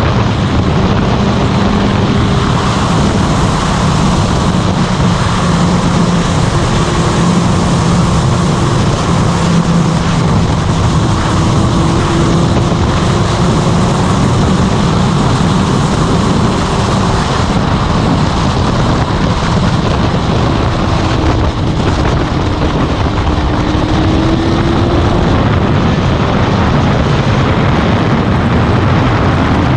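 Motorcycle running at a steady cruising speed, with wind rushing over the microphone; the engine note drifts slightly up and down in pitch.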